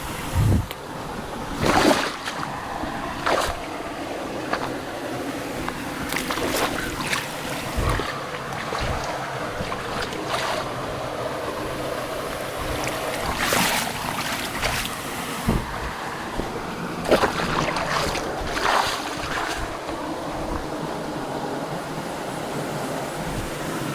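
Mountain stream water rushing steadily, with scattered short knocks and clicks and a few low thumps.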